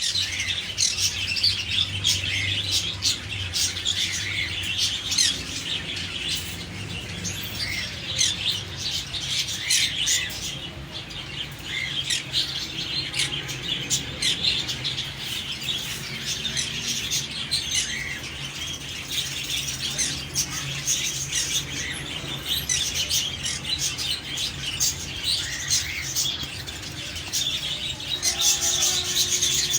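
Green-cheeked conures chirping in a dense, continuous stream of short, high calls, over a faint low steady hum.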